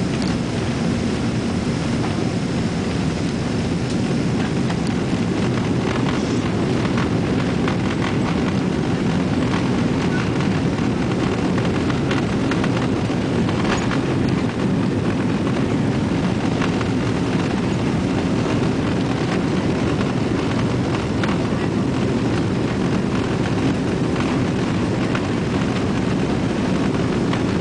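Cabin noise inside a Boeing 777-200 in economy: a steady low rumble of the jet engines and airframe, with faint scattered rattles.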